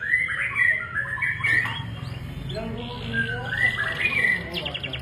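Domestic canary singing a fast run of short rising and falling notes, over a steady low hum.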